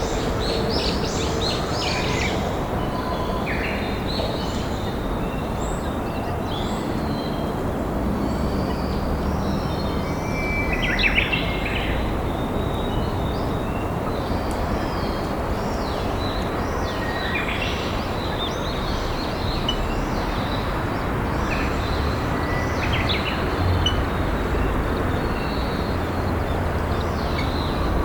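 Steady rush of a flowing river, with wild birds calling now and then in short chirps and phrases, a cluster near the start and others about a third and two thirds of the way through.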